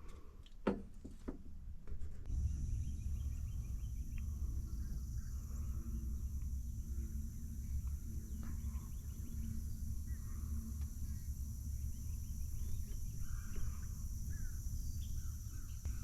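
Morning swamp outdoor ambience: scattered bird chirps over a steady high-pitched hum and a steady low rumble, coming in about two seconds in after a few faint clicks.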